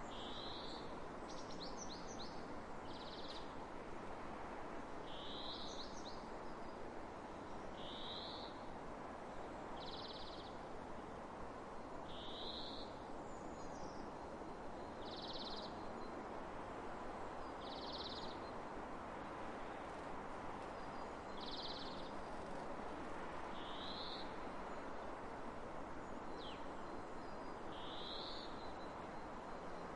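Steady wind noise over open fields, with a single bird repeating a short, high call phrase about every two seconds, the phrases alternating between a quick upward slur and a flat buzzy note.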